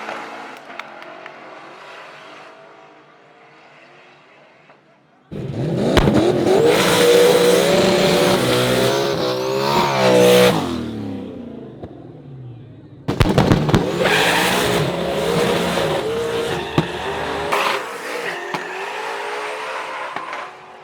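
Drag race car engines at full throttle, their pitch climbing and then dropping at gear shifts. There are two loud runs, each starting abruptly, about five and thirteen seconds in.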